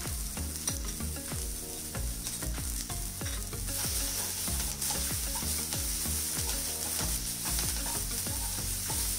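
Chopped green chillies, spring onion and garlic sizzling in a little oil in a nonstick kadai while a wooden spatula stirs them, scraping and tapping against the pan. The sizzle gets louder a little under four seconds in.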